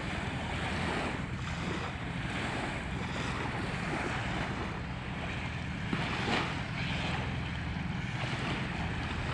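Wind rumbling steadily on the microphone over a constant wash of small waves on the Volga shore.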